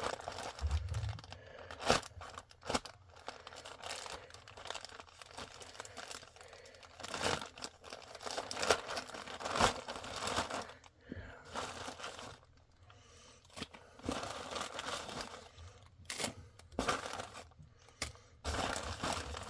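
A mail package being torn open and its packaging crinkled by hand: irregular tearing and rustling, broken by a few sharp clicks.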